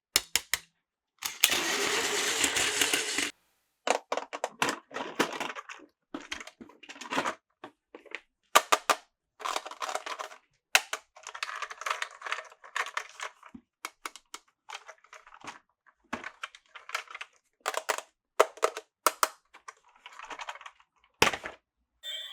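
Irregular plastic clicks and rattles, as of toy train and track pieces being handled, with a steady two-second stretch of noise about a second in.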